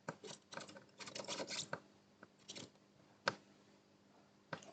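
Short scratching and rubbing strokes of a soldering tool worked across the pins of a console's HDMI port, in a cluster over the first two seconds, then a single sharp click a little after three seconds.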